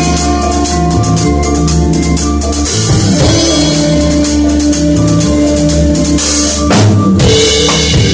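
Drum kit played in a steady groove, bass drum and snare hits with cymbals, over music with a bass line and held notes. A heavy accented hit comes about two-thirds of the way through.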